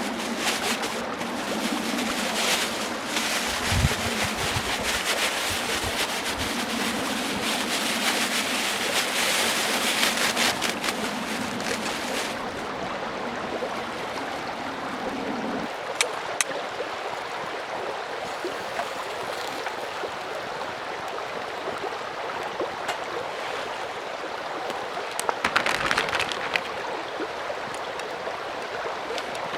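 Mountain stream flowing: a steady rush of water with scattered small ticks. The sound changes abruptly twice partway through.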